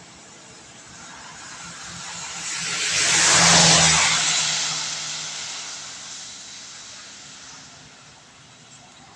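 A vehicle passing on a wet road: the hiss of its tyres on the wet asphalt swells to a peak about three and a half seconds in, then fades away over the next few seconds. Steady rain hiss underneath.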